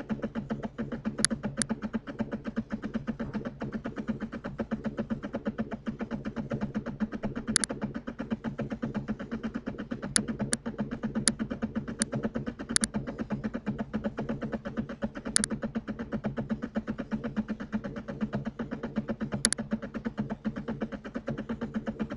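Sharp computer mouse clicks, about ten scattered singly and in quick pairs, over a steady low electrical hum.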